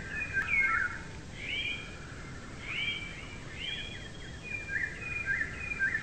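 Songbirds chirping: a run of short, high chirps and brief whistled notes, a few each second, over a faint steady hiss.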